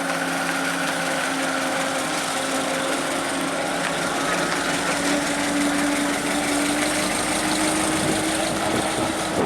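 Engine running steadily, its pitch holding nearly constant.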